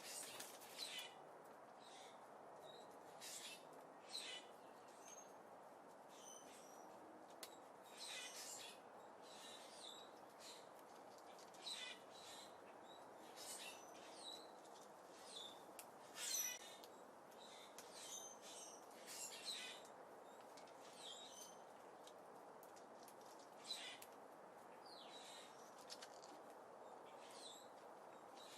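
Small birds at a seed feeder giving short, high chirps scattered irregularly, mixed with brief clicks, over a faint steady hiss.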